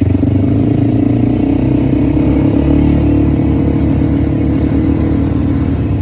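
An engine running loudly and steadily.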